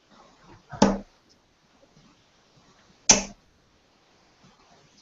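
Two darts striking a dartboard, each a sharp thud, about two seconds apart.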